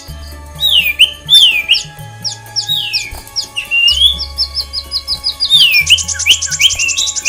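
Several aviary birds chirping and calling, with repeated down-slurred whistles and short sharp notes and a rapid trill about six seconds in. Under them runs background music with sustained low bass notes.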